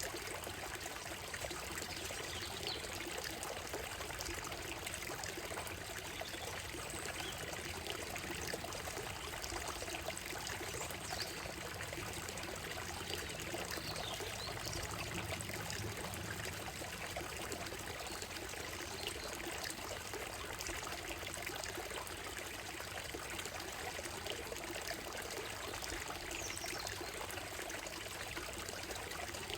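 Shallow stream running steadily over stones and gravel in a continuous babbling trickle, with a few faint, brief bird calls high above it now and then.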